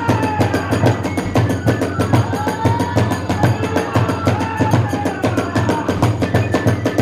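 Kagura hayashi accompaniment: fast, driving drumming with clashing hand cymbals, and a bamboo flute melody gliding above it.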